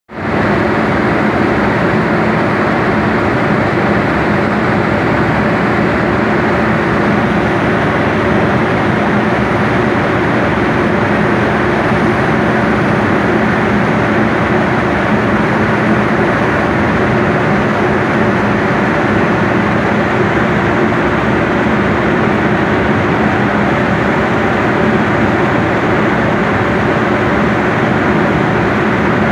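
Box-type coffee dryer running with its motorized mixer: a loud, steady mechanical drone with a constant hum.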